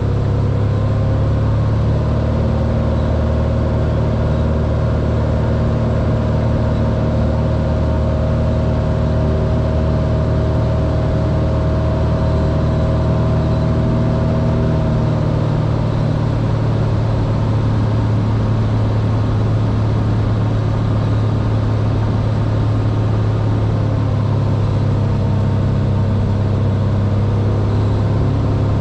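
Cessna 182R's six-cylinder piston engine and propeller droning steadily, heard from inside the cockpit, with a slight change in tone about halfway through.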